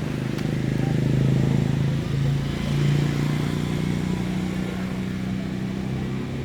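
A motor engine running steadily, growing a little louder in the first half and then settling.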